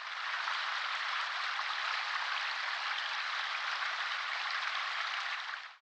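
A steady, even hiss with no low end and no distinct clicks. It cuts off just before the end.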